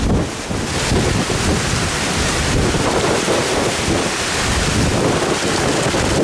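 Tropical-storm winds blowing hard and buffeting the microphone: a loud, steady rushing noise with a heavy low rumble.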